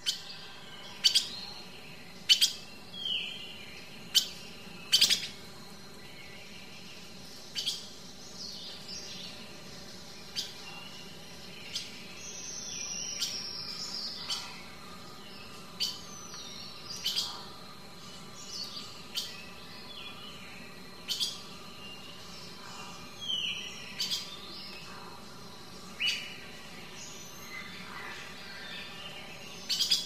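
Wild birds calling: short, sharp chirps every second or two, several of them quick falling whistles, with one longer falling whistle about halfway through.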